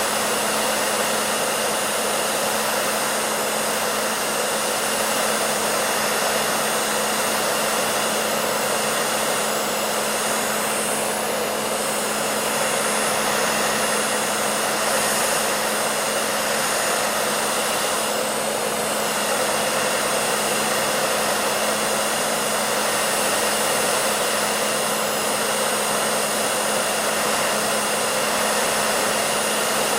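A hair dryer running steadily: an even, airy whoosh of blown air with a low hum from the motor underneath.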